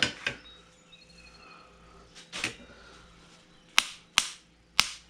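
Sharp metal-on-metal taps from hand tools working a driveshaft U-joint: a couple of scattered knocks, then a run of crisp strikes about every half second near the end.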